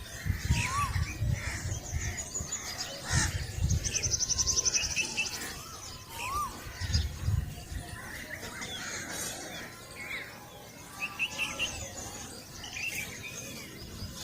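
Several birds chirping and calling outdoors with many short mixed calls, including a fast trill about four seconds in. A few low rumbles come and go beneath them.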